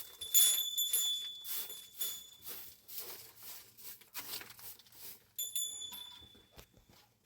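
Rustling and handling of objects, with a thin high metallic ringing that sounds during the first couple of seconds and again about five and a half seconds in.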